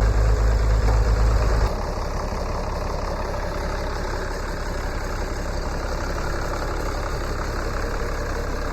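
An engine idling steadily. Its low rumble drops in level about two seconds in, then runs on evenly.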